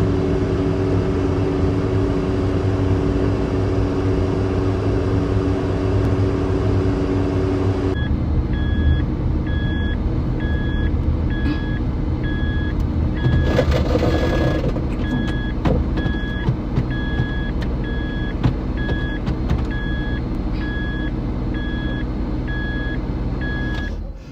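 Car engine running, joined about a third of the way in by a dashboard warning chime beeping steadily about three times every two seconds. The engine swells briefly around the middle, and its sound drops away at the very end.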